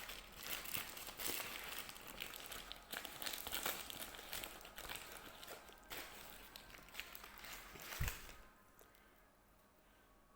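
Food packaging being handled, crinkling and rustling, with scattered small clicks and taps. There is one louder thump about eight seconds in, and after it things go much quieter.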